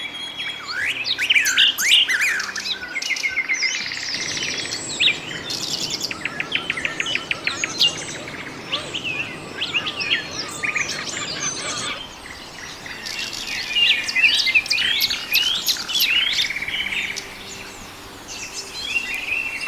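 Many small birds chirping and calling over one another, a dense chorus of quick high chirps, sweeping whistles and fast trills. The chorus thins briefly about twelve seconds in and again near the end.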